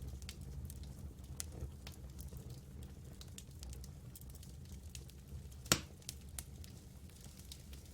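Campfire burning with scattered small crackles and pops, and one loud sharp pop a little after the middle. A low, steady rumble runs underneath.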